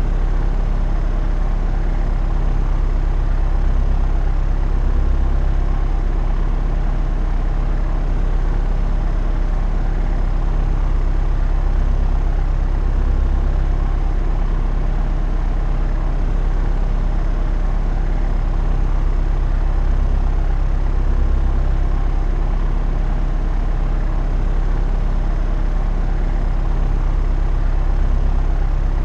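Propeller aeroplane in flight: a steady, low engine-and-propeller drone that slowly swells and eases every few seconds.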